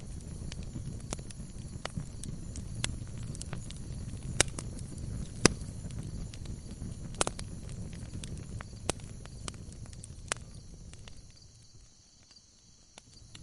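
Wood fire burning in a fireplace: a low steady rumble of flames with scattered sharp crackles and pops from the logs, a few of them loud. About eleven seconds in, the sound drops away almost to silence, then comes back near the end.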